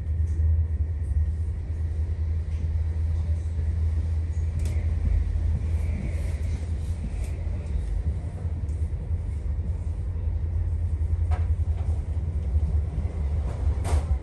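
Steady low rumble of a moving passenger train heard from inside the carriage, with a few short sharp clicks, two of them close together near the end.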